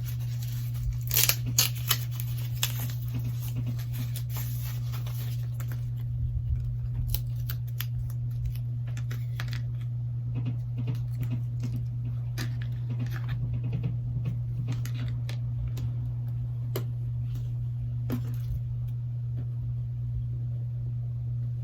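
Plastic packaging or film crinkling and tearing while a replacement phone back glass is handled and unwrapped, with scattered light clicks and taps, over a steady low hum. The crinkling is densest in the first several seconds; after that the handling thins out into small ticks.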